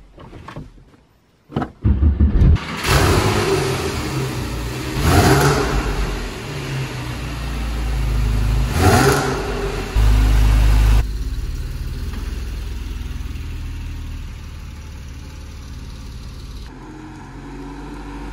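Porsche 911 Carrera S (997) 3.8-litre flat-six with a TechArt exhaust starting up about two seconds in, revved twice, then running steadily as the car drives off.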